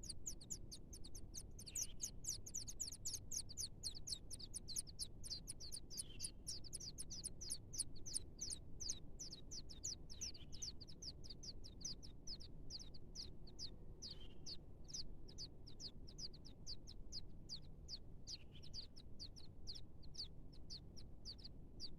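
Small bird chirping in a rapid, unbroken series of short high-pitched notes, several a second, with a softer, lower note about every four seconds.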